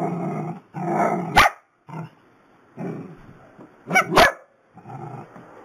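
A dog barking repeatedly, about six barks a second or so apart, some of them low and growly. There are a few sharp clicks among them, near a second and a half in and twice around four seconds in.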